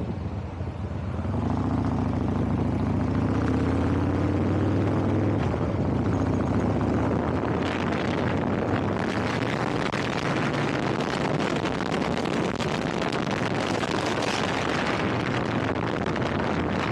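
Vehicle engine accelerating, its pitch rising for the first few seconds, then giving way to a steady rush of wind and road noise as the vehicle travels on.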